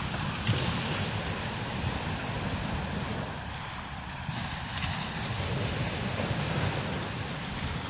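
Strong desert wind blowing across sand dunes, buffeting the microphone with a low rumble that swells and fades under a steady hiss, with a brief louder gust about half a second in.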